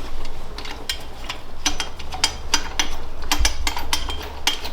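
Hand tools working on metal bolts and exhaust parts: a string of irregular, sharp metallic clicks and clinks.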